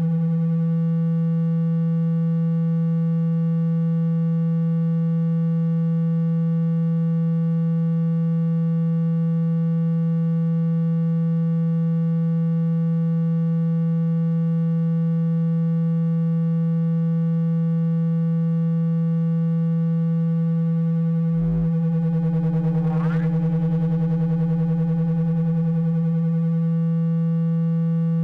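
Steady low buzzing electronic tone, a water-ejection sound played to shake water out of a phone speaker by vibration. About three quarters of the way in there is a brief click, then a short pitch glide over the steady tone.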